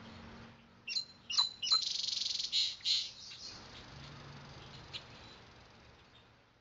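A songbird singing: three quick high chirps sweeping downward, then a rapid, dense trill lasting about a second and a half, then a few faint chirps, over a faint steady room hum.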